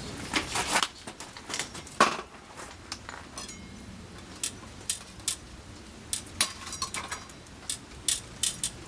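Irregular clicks and clinks of metal utensils being handled while cooking on a barbecue, the sharpest about two seconds in.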